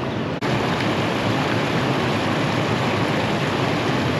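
Steady rushing of flowing creek water, an even hiss without any rhythm.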